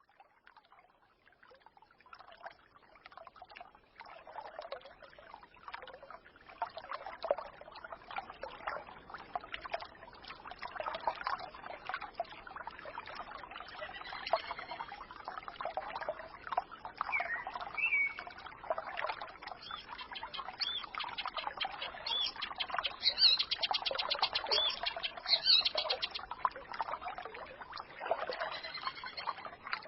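A small forest stream babbling and trickling. It fades up from near silence over the first few seconds. Songbirds chirp now and then over it, with more calls in the second half.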